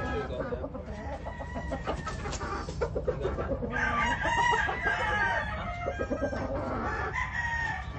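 Several gamefowl roosters crowing, the crows overlapping, with clucking between them; the crowing grows denser about halfway through.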